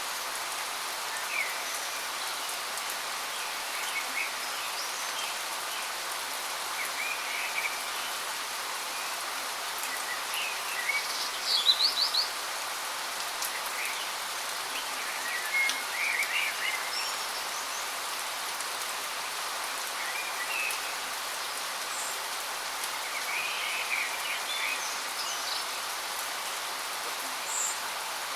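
Waterfall running with a steady rushing sound, while small birds chirp now and then over it. The loudest is a quick run of high chirps about twelve seconds in.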